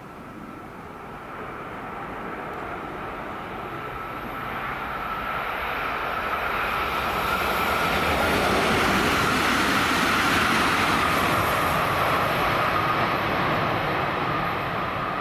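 Southeastern Class 395 'Javelin' high-speed electric train approaching and passing at speed: a rush of wheel and air noise with a steady whine, growing louder to a peak about two-thirds of the way through and easing a little near the end.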